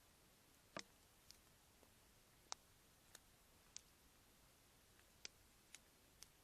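Faint, sharp ticks at irregular intervals, about eight of them, over a quiet background hiss.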